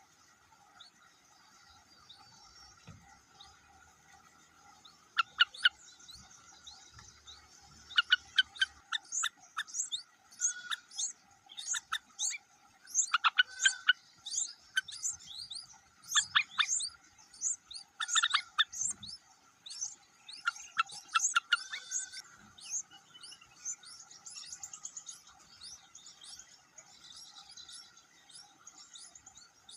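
Baby birds in a nest chirping: quick, sharp calls start about five seconds in, come thick and loud through the middle, then thin out to fainter repeated chirps near the end, over a steady faint drone.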